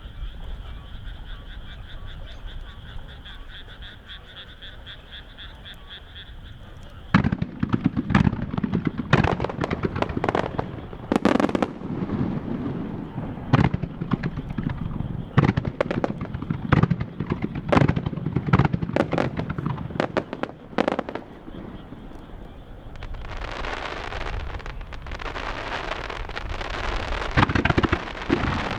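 A steady pulsing chorus of frogs croaking, then, about seven seconds in, a rapid barrage of starmine fireworks shell bursts: many loud booms in quick succession. A dense crackling hiss joins the booms in the last few seconds.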